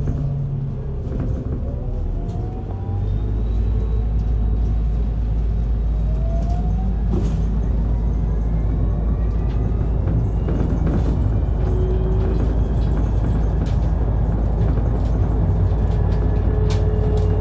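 Mitsubishi Fuso Aero Star Eco Hybrid bus running, heard from inside the cabin. A low rumble grows louder about three seconds in, and whines rise in pitch several times as the bus gathers speed.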